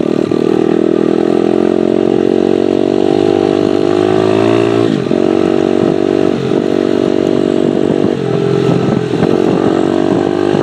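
Dirtbike engine running loud and steady, with brief dips in engine speed about five, six and a half and eight seconds in.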